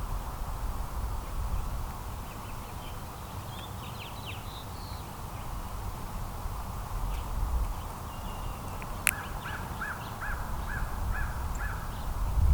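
Small backyard birds chirping briefly, then a run of seven short, evenly spaced calls, about three a second, over a low rumble.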